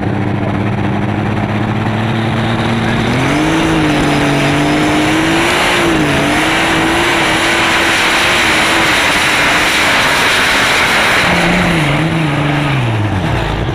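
Light super stock pulling tractor's engine, loud, running steadily, then revving up about three seconds in and held at high revs with small wavers, before the revs fall away near the end.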